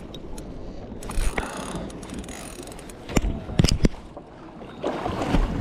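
Fishing reel clicking and grinding as the line is worked, with a few sharp knocks about a second in and again near the middle.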